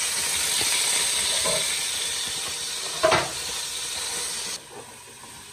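Marinated chicken frying in hot ghee in a steel pot, sizzling strongly as it is tipped in and stirred. There is one metallic clank against the pot about three seconds in, and the sizzle drops away suddenly near the end.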